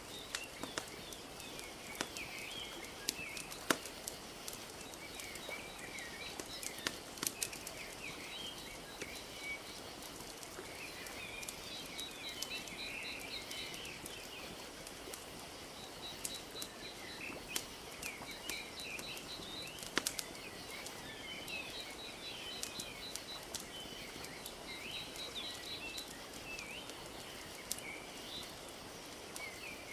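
Wood fire crackling with scattered sharp pops over a steady wash of gently lapping lake water. Small birds chirp throughout, with quick trills repeating now and then.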